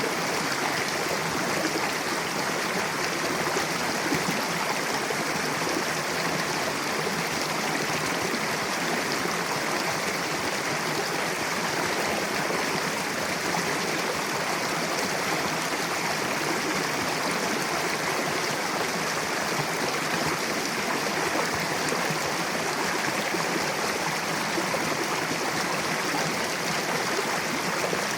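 Mountain river rushing steadily over rocks: a continuous, even rush of water.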